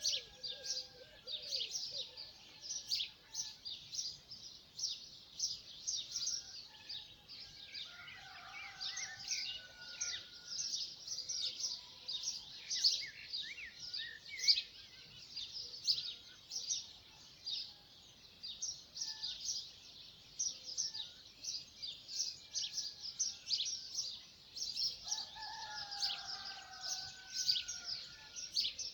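A dawn chorus of many small birds chirping continuously in rapid, overlapping high notes. Twice, a longer and lower bird call stands out, about eight seconds in and again near the end.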